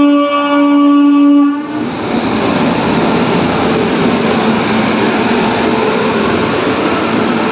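A train horn holds one long steady note that cuts off about a second and a half in. It gives way to the loud, steady rush of the Tejas Rajdhani express train running past at speed.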